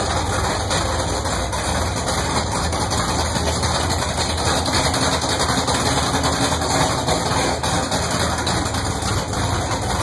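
1970 Pontiac Trans Am's V8 engine idling steadily at about 1,000 RPM, running on its first start.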